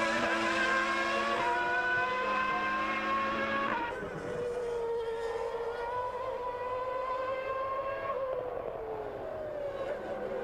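Formula One car engine running at high revs, its pitch stepping at a couple of gear changes in the first four seconds. The pitch falls about eight seconds in, then holds steady.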